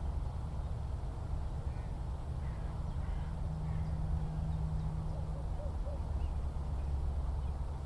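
Open-country ambience: a steady low rumble, with a low hum for about two seconds in the middle and faint, scattered bird calls.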